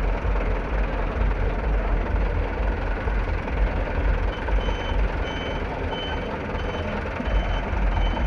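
Vehicle reversing alarm beeping: a regular series of short high beeps, about one every half second or so, beginning about halfway in, over a steady background din with low rumble.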